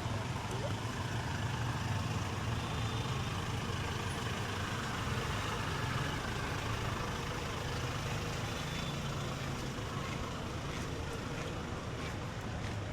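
Street traffic: a motor vehicle's engine running with a steady low rumble.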